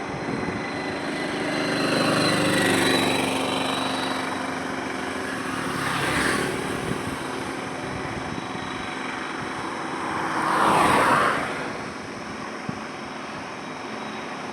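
Highway traffic with vehicles passing one after another over steady road noise: a first pass with an engine note dropping in pitch, a shorter one about halfway, and the loudest pass near the end.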